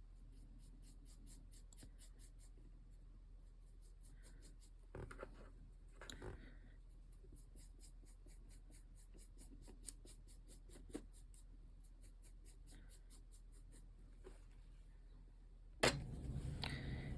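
Paintbrush stroking paint onto a surface in quick, even, light scratchy strokes, with a few soft taps of tools on the work table. Near the end a louder bump, then louder handling noise.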